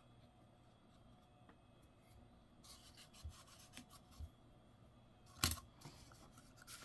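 Near silence, then faint handling noise: light rubbing and small clicks as coins and their holder are moved about, with one sharper click about five and a half seconds in.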